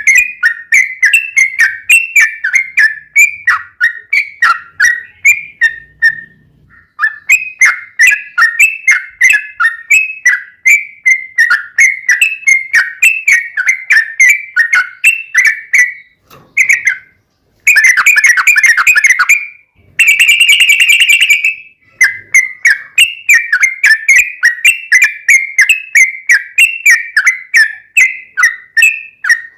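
Yellow-vented bulbul (trucukan) singing in long, rapid runs of quick chattering whistled notes, several a second. About two-thirds of the way through, the runs give way to a denser, harsher burst and then a brief steady buzzy trill before the chattering resumes.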